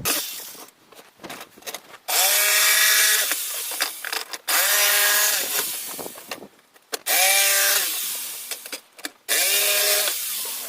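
A handheld electric power tool run in four short bursts of about two seconds each. Each burst starts loud with a steady whine and fades before it cuts off, and a few knocks come before the first one.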